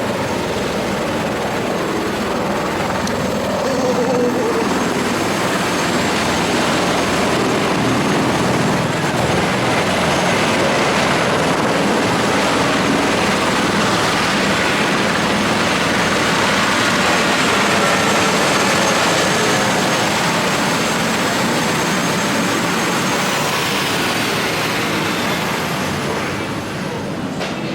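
Helicopter running: loud, steady rotor and engine noise that swells about four seconds in, with a high whine falling in pitch near the end.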